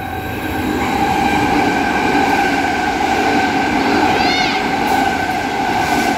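Six-car Transperth electric train passing through the platform without stopping: a steady whine from its electric drive over the rumble of its wheels, louder from about a second in. There is a brief high squeal about four seconds in.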